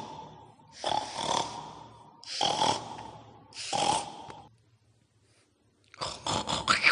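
Harsh, breathy pig-like snorts, given as the sound of a babi ngepet pig demon: three bursts about a second and a half apart, a short pause, then a denser run of rough sound near the end.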